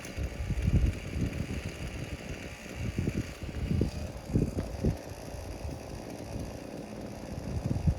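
Small two-stroke brush cutter engine running at low throttle, with irregular low thumps and gusts over it.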